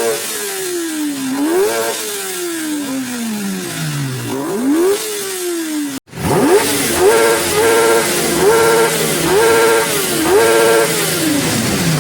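Kawasaki ZX-10R inline-four superbike revved while standing still: quick throttle blips whose pitch rises sharply and falls away slowly. After a brief cut about six seconds in, five fast revs follow about a second apart, each held high for a moment.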